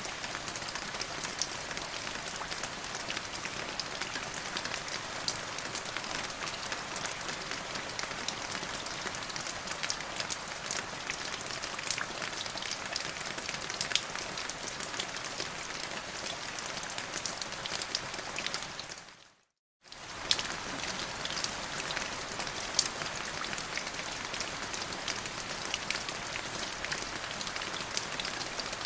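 Steady rainfall, an even hiss scattered with many separate drop hits. About two-thirds of the way through it fades quickly to silence for under a second, then comes straight back.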